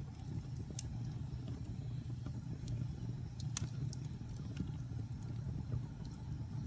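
Campfire of burning logs: a steady low rumble with scattered sharp crackles and pops from the wood, the loudest pop about three and a half seconds in.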